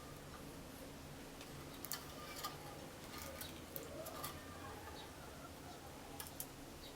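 Faint, irregular sharp ticks and clicks, about half a dozen spread unevenly, over a low steady hum.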